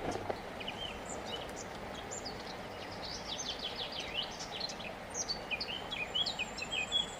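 Small birds singing, with many quick chirps and trills that come thicker in the second half, over a steady background rush.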